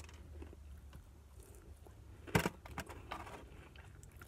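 Faint chewing and handling of fried chicken and toast over a low steady hum, with one sharp crunch or click about two and a half seconds in.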